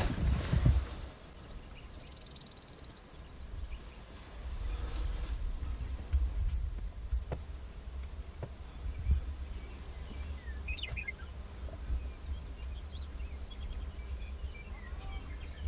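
Steady high-pitched insect trill over a low wind rumble on the microphone, with a few faint clicks and small chirps.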